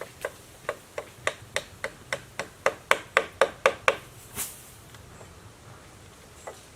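A tool striking wood in a quick run of sharp blows, about three to four a second and growing louder, then one more blow after a short pause and a faint last one near the end.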